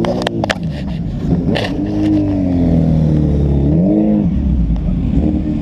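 Motorcycle engine revving up and back down several times, its pitch rising and falling, with a few sharp clicks in the first second or so.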